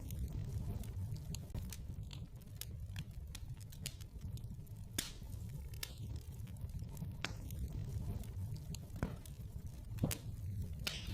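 Wood fire burning in a fireplace: irregular crackles and pops over a low steady rumble of the flames, with a louder pop about ten seconds in.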